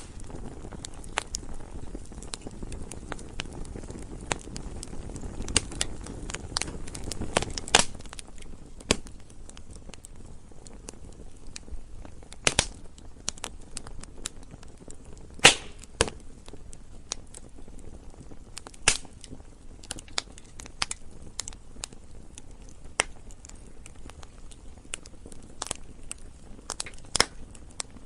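Wood fire crackling: irregular sharp snaps and pops of burning wood over a steady low rush of flame. The low rush is heavier for the first eight seconds or so, and the loudest pops come about halfway through.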